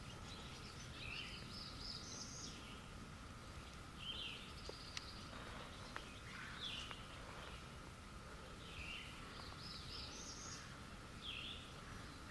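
Small songbirds singing faintly in the morning woods: a short, high song phrase comes twice, about eight seconds apart, with scattered chirps between.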